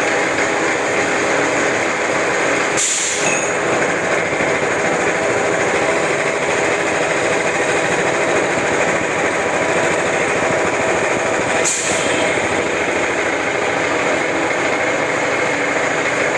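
Homemade CNC lathe running steadily while threading a pipe, a continuous machine whir, with two brief high hissing sounds about 3 seconds and 12 seconds in.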